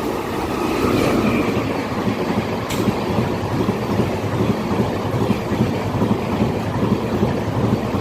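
Train running past on the track: a steady, loud rumble of wheels on rails that swells about a second in and holds, with one sharp click nearly three seconds in.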